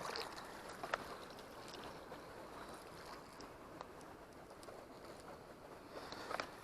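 Steady low rush of a shallow stream's running water, with a few faint clicks about a second in and near the end.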